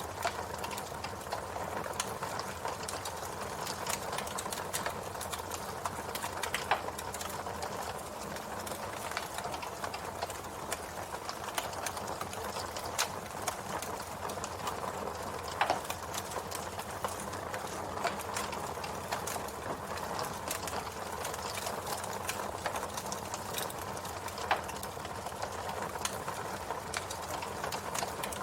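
Campfire burning with a steady low hiss and frequent crackles, a few louder pops standing out about a quarter of the way in, around the middle and near the end.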